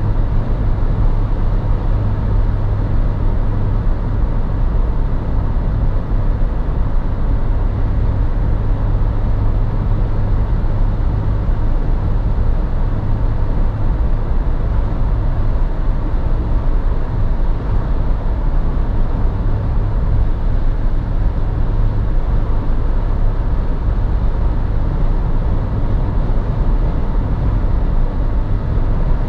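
Suzuki Jimny 1.5 VVT's four-cylinder engine running at a steady pace as the car drives, with a constant low drone and road noise and no revving.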